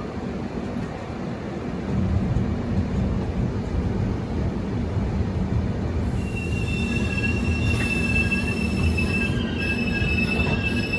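Express passenger train running into the station with a steady low rumble that grows louder about two seconds in. From about six seconds in, a high, steady wheel squeal of several tones joins it.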